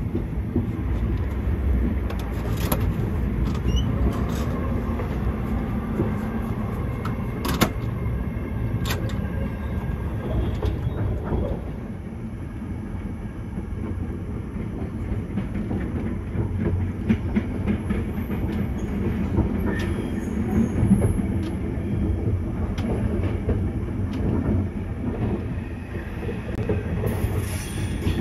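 Passenger train running on the rails: a steady low rumble with a few sharp clicks and knocks scattered through it.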